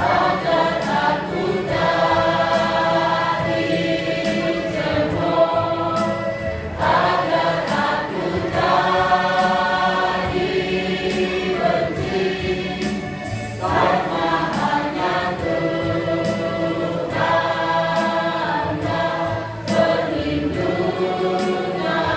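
Seniors' church choir singing in harmony, in long sustained phrases with short breaks between them.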